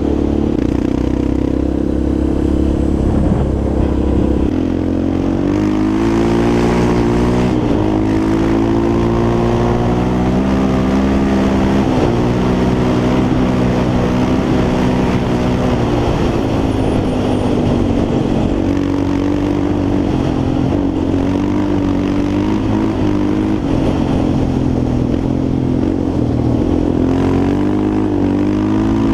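Yamaha Raptor 350 quad's single-cylinder four-stroke engine running while ridden, its pitch repeatedly rising and falling as the throttle is opened and closed.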